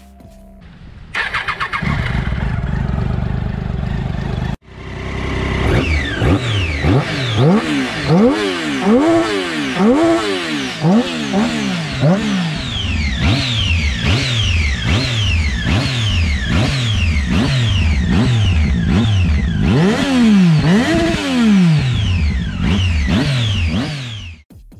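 Triumph Daytona 675's 675 cc three-cylinder engine starting about a second in and idling. After a cut it is revved in repeated quick blips, each rising and falling, about one a second.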